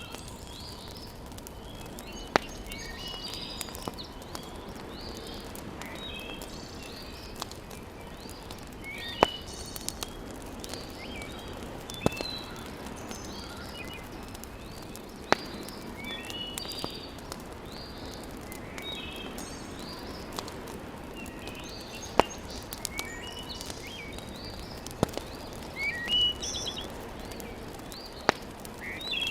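Wood fire crackling in a fireplace, with sharp loud pops every few seconds over a low steady hiss. Birds chirp repeatedly throughout.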